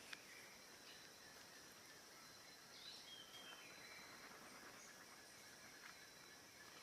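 Very faint nature ambience: a steady high insect buzz with a couple of short, soft bird chirps, one about three seconds in.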